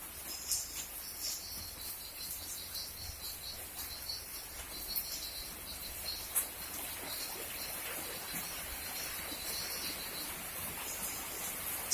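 High-pitched chirping calls repeating rapidly over a steady hiss, dying away about ten seconds in.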